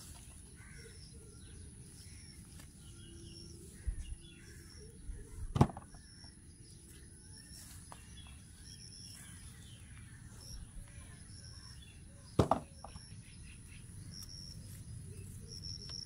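Outdoor ambience with a bird giving short high chirps about once a second over a faint steady hiss, broken by two sharp thumps, about five seconds apart.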